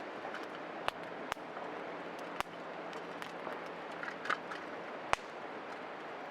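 Wood fire crackling over a steady hiss, with several sharp pops scattered through it.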